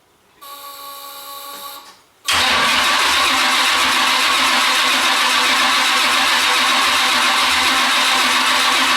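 Oldsmobile 455 V8 being started: the high-torque starter whines for about a second and a half, stops, then a moment later the engine runs, loud and steady.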